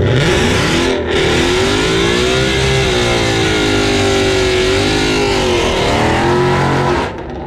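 A drag-racing car's engine at full throttle on a pass: the pitch climbs sharply on the launch, dips briefly at a gear change about a second in, then holds high and wavers. The sound cuts off suddenly near the end.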